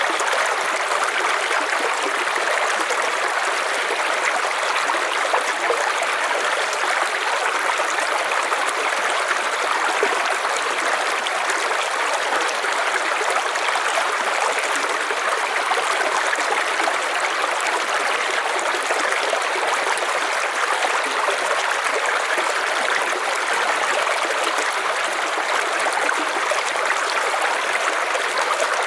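River water flowing over stones in a steady rush with a fine splashing texture.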